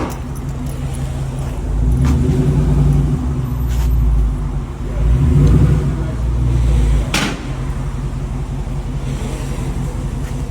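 Car engine running at low speed, getting louder twice in the first seven seconds and then settling to a steady idle, with a few short clicks.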